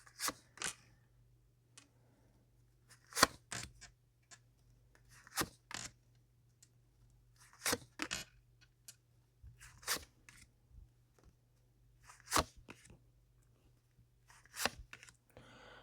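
Tarot cards being handled on a table: short, sharp card snaps in pairs, a pair about every two seconds.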